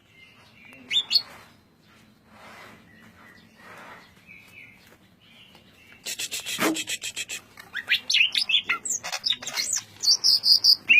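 Green leafbird (cucak ijo) singing in the dense 'ngentrok' style. A short call comes about a second in, then from about six seconds a fast, tightly packed chatter of sharp strokes and high whistled notes.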